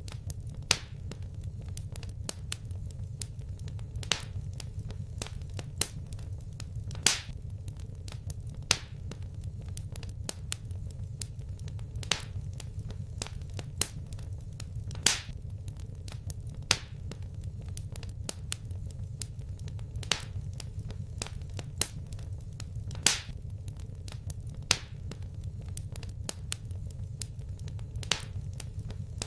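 Fireplace fire crackling: irregular sharp pops and snaps, a louder one every few seconds, over a steady low rumble.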